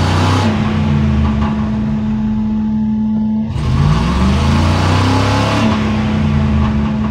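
Ford Crown Victoria Police Interceptor's 4.6-litre V8 being revved from inside the cab, twice: the first rev peaks at the start and falls back, the second rises about three and a half seconds in. The mechanic says half of the engine is not working, and the revs don't hold the way they are supposed to.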